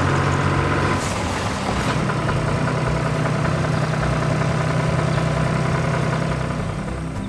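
Heavy diesel engine of quarry machinery running steadily, with a short sharp sound about a second in.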